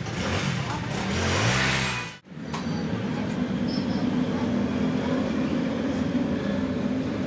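An engine revving up, cutting off abruptly about two seconds in, then a steady engine hum.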